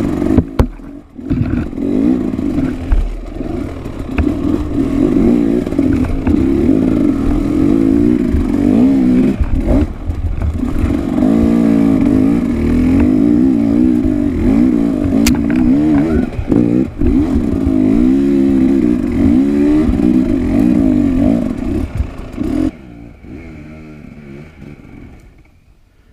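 Dirt bike engine revving up and down as it is ridden, with scattered knocks and clatter. The engine noise drops away sharply near the end, leaving a faint fading sound.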